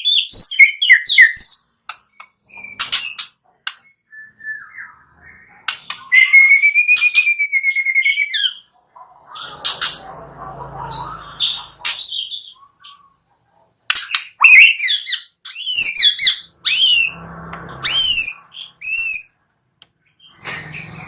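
White-rumped shama (murai batu) singing in bursts of loud, varied whistles and sharp clicking notes, with a held wavering whistle about a third of the way in and fast runs of repeated downslurred notes later on. This is the kind of song used to provoke a shama into singing.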